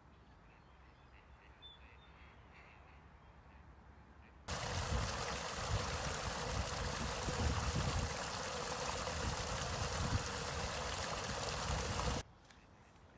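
Faint outdoor background, then a loud, even rushing noise that starts suddenly about four and a half seconds in and cuts off just as suddenly near the end.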